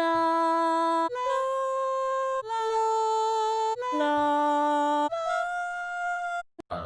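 A solo melody line with no accompaniment: five long held notes, each just over a second, each sliding slightly into its pitch. Two short clipped notes follow near the end.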